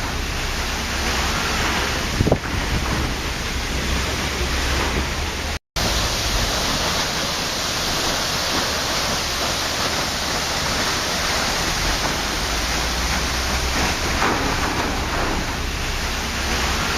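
Waterfall rushing in a steady, even roar of falling water, with a brief knock about two seconds in and a momentary cut to silence about five and a half seconds in.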